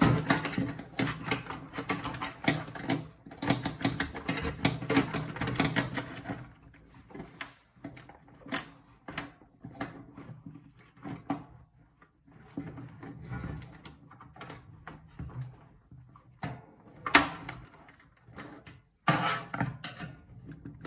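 Small hard plastic and metal computer parts and tools being handled during a PC teardown: a dense run of clicks and rattles, thinning after about six seconds to scattered clicks and knocks.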